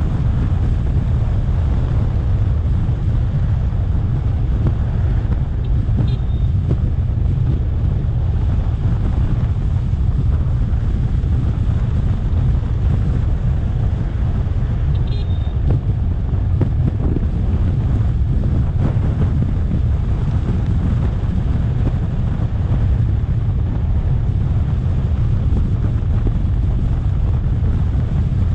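Wind buffeting the microphone on a moving electric scooter: a steady low rumble with some road noise. Two faint short high beeps come through, about six and fifteen seconds in.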